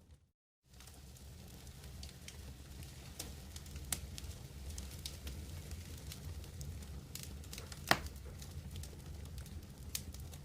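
Wood campfire crackling, with scattered sharp pops over a steady low rumble; one louder pop comes about eight seconds in. The sound drops out for about half a second right at the start.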